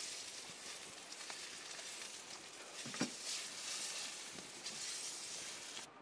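Steady sizzling of food cooking over a campfire, with one sharp pop about three seconds in.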